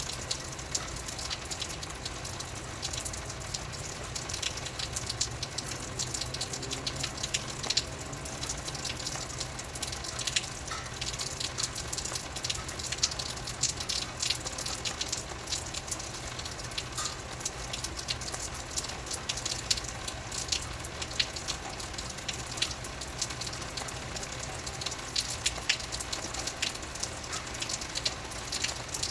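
Steady rain: a constant hiss thick with irregular ticks of drops striking, over a low steady hum.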